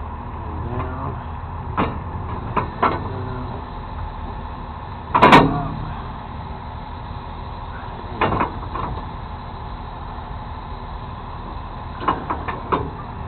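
Truck engine running steadily, with a series of short metal clanks and knocks; the loudest comes about five seconds in.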